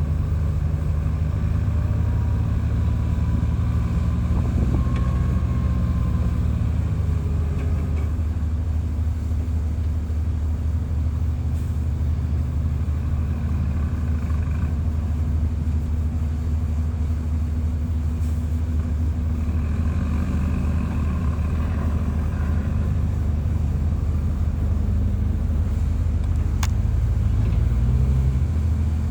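Bulldozer's heavy diesel engine running steadily with a deep, even drone, a faint thin whine over it in the first few seconds and a single sharp click near the end.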